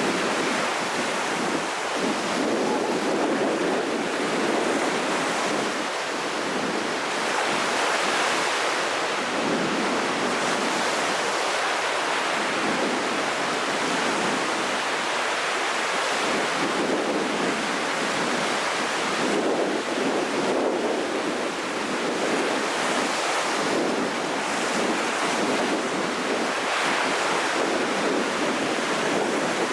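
Rough sea before a typhoon: heavy surf breaking and washing in continuously, swelling and easing as waves come in, with wind blowing.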